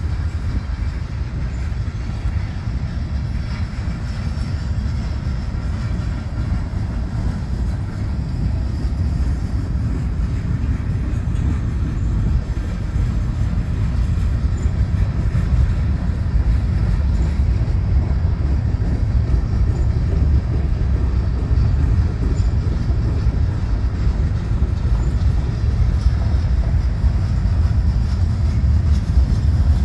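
Freight cars of a mixed freight train rolling past, tank cars and then hopper cars: a steady rumble of steel wheels on the rails, growing a little louder toward the end.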